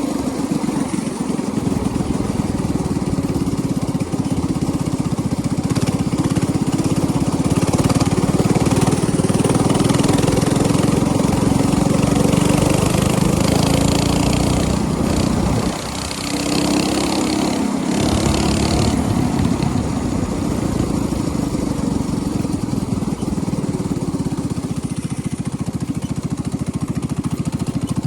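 Small single-cylinder minibike engine running steadily under throttle, easing off briefly about sixteen seconds in and then revving back up.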